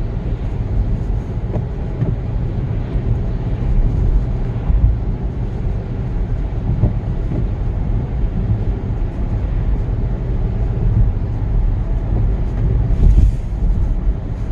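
Road noise inside a moving car's cabin: a steady low rumble of engine and tyres, with a brief louder hiss near the end.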